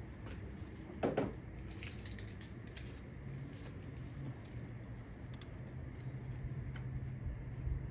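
Light metallic clicks and jingles of hand tools and a spark plug socket being handled. A cluster of sharp clinks comes about two seconds in, and a faint steady low hum runs through the second half.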